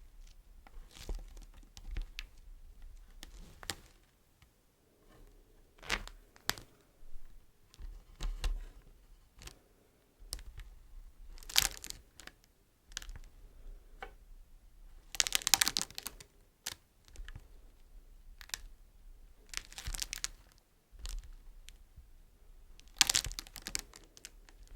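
Beeswax wrap handled close to the microphone: scattered crinkles, light taps and sticky peeling sounds in short clusters every second or two, with a denser crinkling flurry a little past the middle and another near the end.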